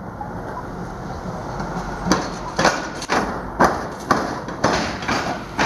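Rail vehicle's wheels knocking over the rail crossing at a tram square, a steady rumble followed from about two seconds in by loud, evenly spaced clunks, about two a second, as the axles pass the crossing gaps.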